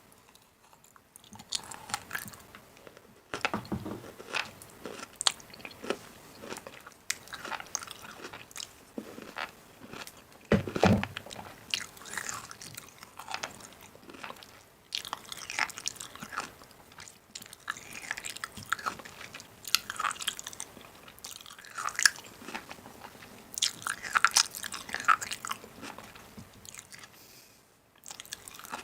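Irregular crunching and clicking of food, close to the microphone, with many sharp crunches and a louder one about eleven seconds in.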